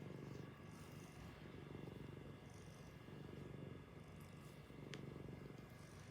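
Domestic cat purring close up: a soft, low, steady purr that swells and fades with each breath.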